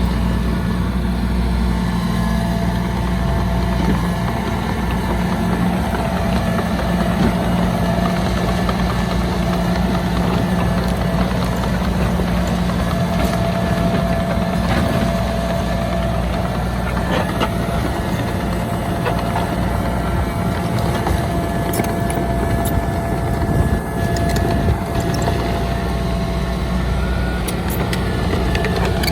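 Heavy diesel earth-moving machinery running steadily: a continuous low engine drone with a constant higher tone over it and a few brief knocks.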